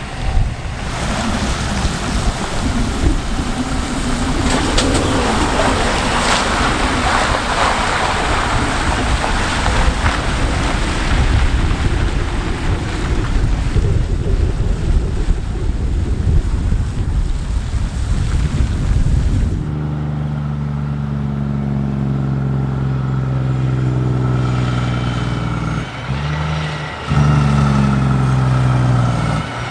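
A heavy diesel truck hauling a race transporter drives past with a broad rumble of engine and tyres and wind noise on the microphone. About two-thirds of the way through, the sound changes abruptly to another truck's diesel engine running with a steady, pitched drone. Near the end it dips briefly twice, then comes back louder.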